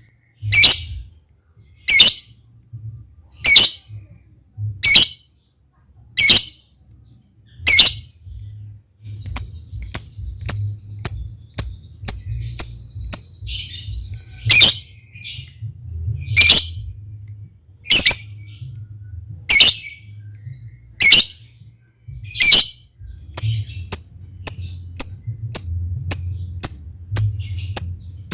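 Lovebird giving sharp, high-pitched chirps, the ticking 'ngetik' call used as a lure to set other lovebirds calling. The loudest chirps come about one every one and a half seconds, with quicker, fainter ones between. Near the end the chirps come faster, about two a second.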